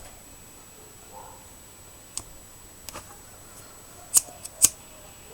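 Scattered sharp clicks of small hand tools and wires being handled, about five in all, the loudest two a little after four seconds in.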